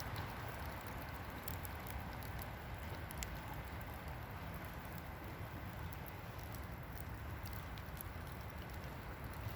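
Wood campfire crackling, with scattered sharp pops and ticks, over a steady low rumble of wind.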